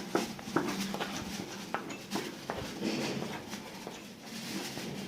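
Irregular knocks and taps from carpentry work, a handful of sharp strikes a fraction of a second to a second apart.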